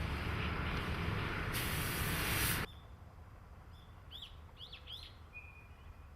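A diesel-hauled freight train running, its rumble joined by a loud hiss for the last second before everything cuts off abruptly about two and a half seconds in. Then quiet, with a few short rising bird chirps.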